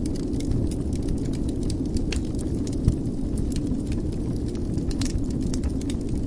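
Wood fire in a fireplace crackling, with irregular small pops and one louder pop about three seconds in, over a steady low rumble.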